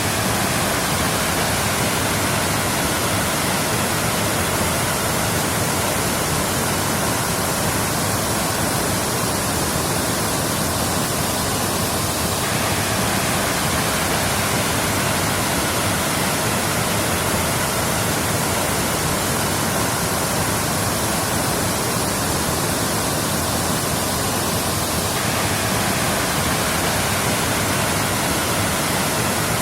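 Waterfall, its falling water making a steady, unbroken rush.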